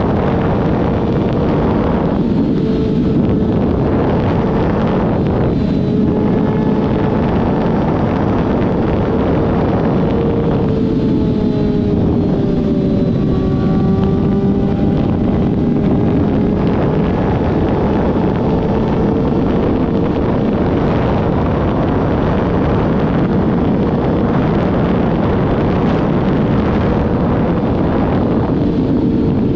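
Car engines running steadily, with a lower engine note that falls slowly about halfway through. Wind buffets the microphone.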